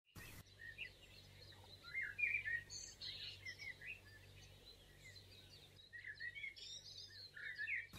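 Faint birds chirping in scattered short calls, with two clusters of chirps about two seconds in and again near the end, over a low steady hum.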